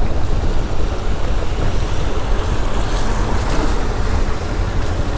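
Wind rushing over the microphone on a moving motorcycle, mixed with the bike's running and road noise: a loud, steady rush heaviest in the low end.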